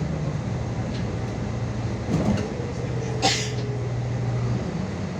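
Ride inside a MAZ 216.066 city bus: the engine and drivetrain hum steadily, with a short hiss of air from the bus's pneumatic system about three seconds in.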